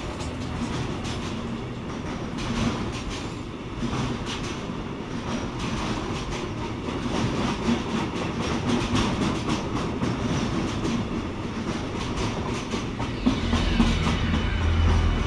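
Freight train of semi-trailers carried on rail wagons rolling past, a steady heavy rumble with wheels clicking irregularly over rail joints, getting louder near the end.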